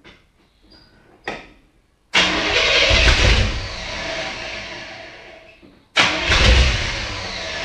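1968 Chevrolet Camaro SS V8 being started after sitting for nine and a half years: two start attempts, each setting in suddenly and fading over three to four seconds, the second following right after the first cuts off. A short knock comes just over a second in, before the first attempt.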